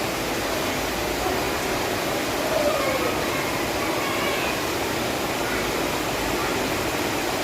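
Heavy rain pouring down, an even, steady rushing hiss.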